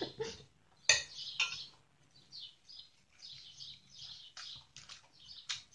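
Close-up chewing of crispy fried chicken: a quick, irregular string of short crunches, with a sharper, louder crunch about a second in.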